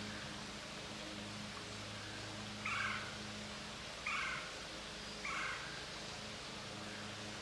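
A bird in woodland gives three short, harsh calls, each about a second or so apart, over a steady low hum.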